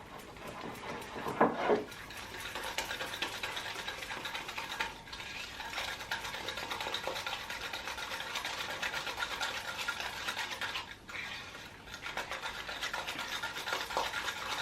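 A spoon stirring cake batter in a mug, with fast, continuous scraping and clinking against the mug's sides as egg, butter, milk and cake mix are worked together until creamy. A louder knock comes about a second and a half in, and the stirring pauses briefly near the end.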